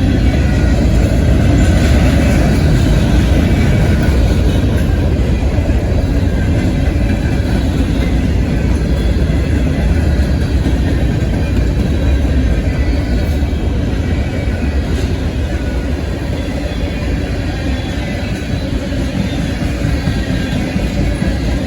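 Freight train rolling past: a steady low rumble of cars on the rails with a few faint clicks, easing slightly near the end.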